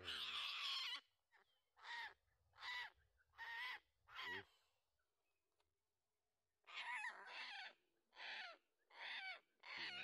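A netted butbut loreng macan held in the hand, flapping its wings at first, then giving a string of short harsh distress calls, about one a second. The calls break off for a couple of seconds in the middle, then come again more closely bunched.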